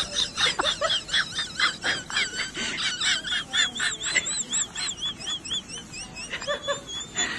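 Rapid, high chirping and warbling of birds, many short wavering notes a second, thinning out after about six seconds.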